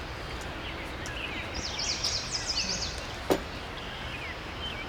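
Small birds chirping over steady outdoor background noise. About a second and a half in there is a quick run of high twittering notes. A single sharp click comes about three seconds in.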